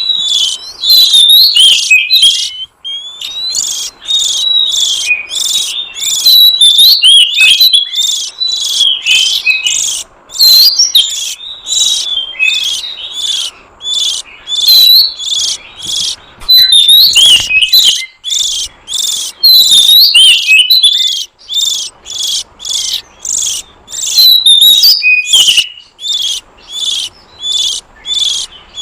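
Oriental magpie-robin (kacer) calling: a loud, unbroken stream of short, high chirps and squeaky whistled notes, about two to three a second. It is a lure call for drawing in wild magpie-robins.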